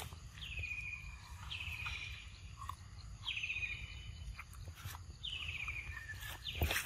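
A bird calling four times, each call a short, buzzy note that falls in pitch, over a steady low rumble.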